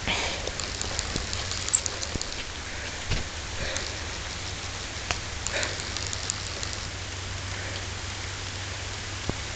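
Steady rain falling, not hard, with scattered drops tapping sharply close by.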